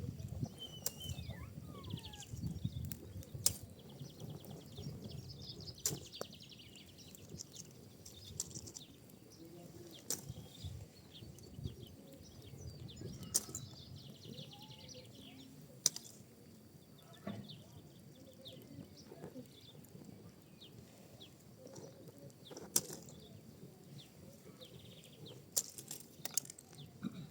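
Pinecone and wood fire burning in a fireplace: irregular sharp crackles and pops over a low flame rumble, with short spells of hissing. The loudest pops come singly, a few seconds apart.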